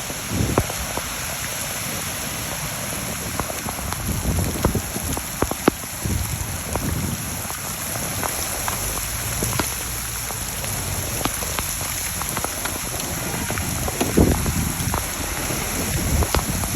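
Rain falling steadily, an even hiss with scattered sharp taps of drops striking close by.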